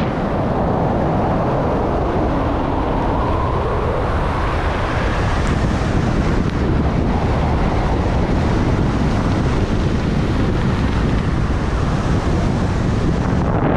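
Strong wind buffeting the microphone in a steady, loud rush, with a faint tone that rises and falls during the first few seconds.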